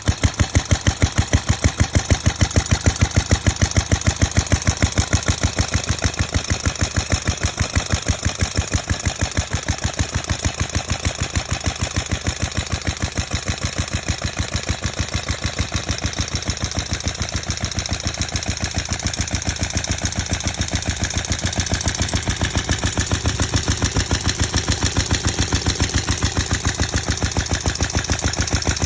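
Antique Nelson Brothers 5/8 HP stationary engine running, its exposed valves working in the open, with a steady, even beat of firing strokes.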